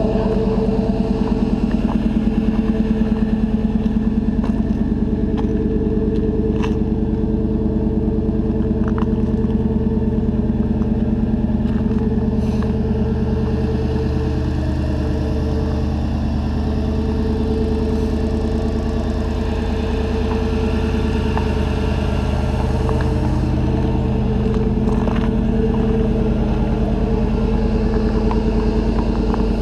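1991 Chevrolet pickup's original, high-mileage engine idling steadily as it warms up after a cold start at 10 °F.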